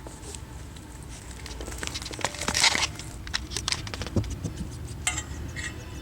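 Five-week-old puppy chewing on a shoe: scattered small clicks and scratches, with a louder rustling scrape about two and a half seconds in.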